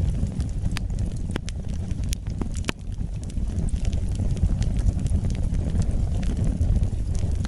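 Wood fire burning in a fireplace: a steady low rumble of flames with sharp, irregular crackles and pops of burning wood, several a second.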